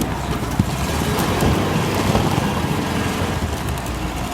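Homemade all-terrain vehicle running on a Zaporozhets air-cooled V4 engine, a steady engine and drivetrain noise, with one sharp knock about half a second in.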